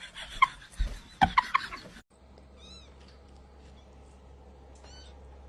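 A cat meowing several short times; about two seconds in the sound cuts off, and two brief high chirps follow over a quiet background.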